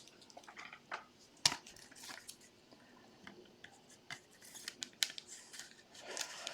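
Faint rustling and small clicks of trading cards being handled and sorted, with one sharper click about a second and a half in.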